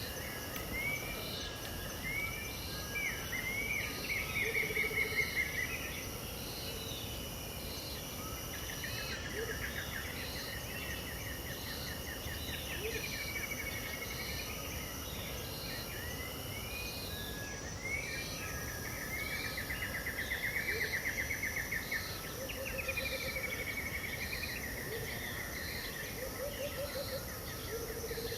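Several birds calling over a steady high insect drone: a high note repeats about once a second throughout, while other birds sing swooping phrases and long rapid trills, and a few short low calls come near the end.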